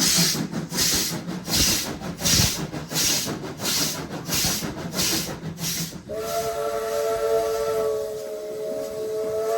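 Steam locomotive working, its exhaust beating in regular hissing chuffs, a little more than one a second. About six seconds in, its whistle sounds a long steady chord of several notes.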